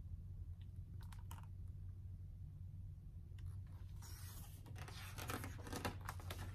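Paper rustling and sliding as a picture-book page is turned, starting about four seconds in after a couple of faint clicks, over a steady low room hum.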